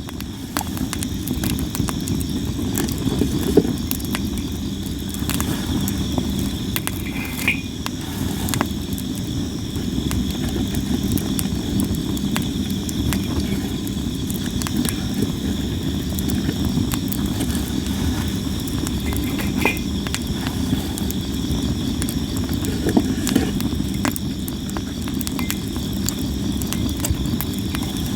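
Sawara cypress firewood burning in a campfire, crackling constantly with frequent sharp pops over a low steady rush of flames. Insects trill steadily in the background.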